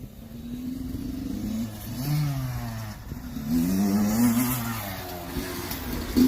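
An engine revving up and easing back off, twice: its pitch climbs about two seconds in, drops, then climbs again for longer about four seconds in.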